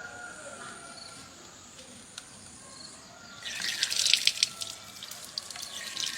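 Water running and splashing, with many small spatters, starting about three and a half seconds in; before that it is fairly quiet.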